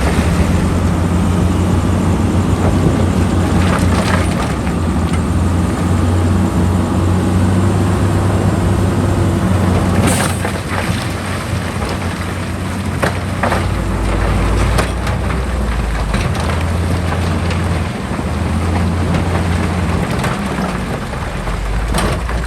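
Heavy diesel earthmoving machinery running steadily, with scattered clanks and knocks; the engine note drops lower for a few seconds past the middle.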